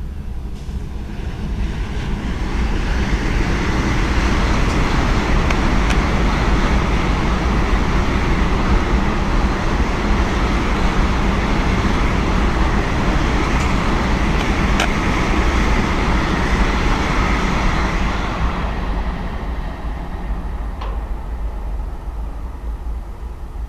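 A train passing at speed: its rumble and wheel noise build over the first few seconds, hold steady with a few sharp clicks, and fade away after about eighteen seconds.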